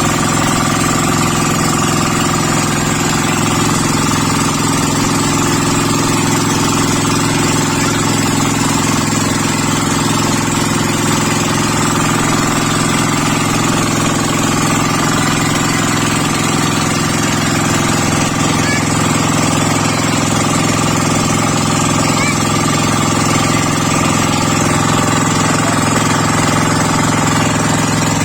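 A small motorboat's engine running steadily at a constant speed, loud and unbroken.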